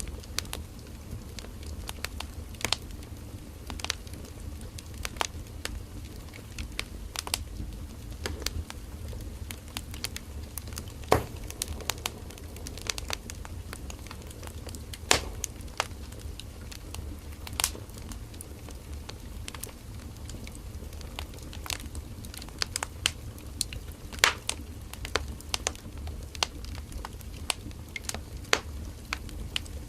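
Burning firewood in a campfire crackling, with irregular sharp pops and snaps over a low steady rumble of the flames.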